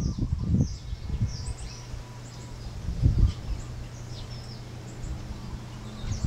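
Birds chirping, with many short high calls scattered throughout. Low rumbling bursts come near the start and again about three seconds in.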